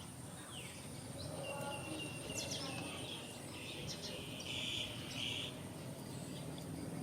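Outdoor ambience: birds chirping in short calls and glides, loudest from about two to five and a half seconds in, over a steady high insect buzz.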